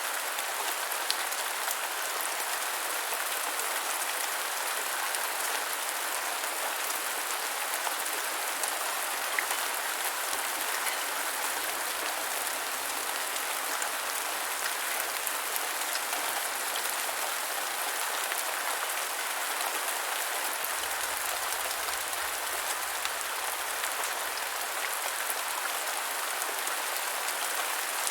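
Steady rain falling on a hard surface, an even hiss of many drops with scattered individual drop ticks.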